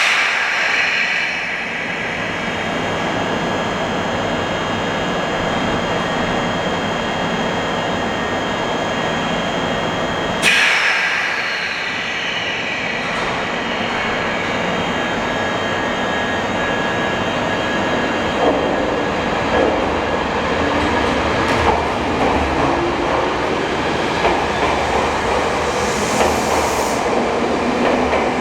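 A Nagano Electric Railway electric train at an underground station platform. Two sudden sharp sounds come at the start and about ten seconds in. From about two-thirds of the way through, the train's motors start to rise in pitch as it pulls away, with wheels clattering over the rails.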